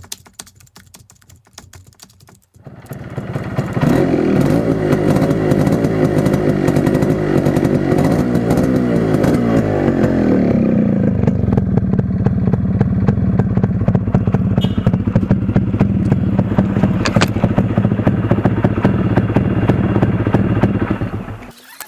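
Yamaha RX100 two-stroke single with the inner silencer of its muffler cut out, starting after a couple of seconds of clicking. It is revved and held high for several seconds, drops to a steady idle about 11 s in, then is switched off near the end.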